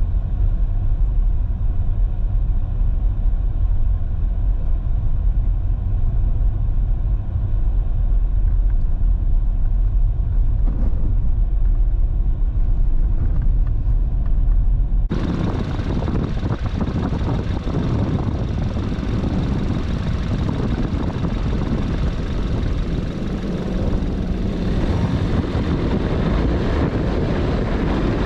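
Steady low rumble of a vehicle on the road. About halfway through it cuts abruptly to a brighter, hissier steady noise.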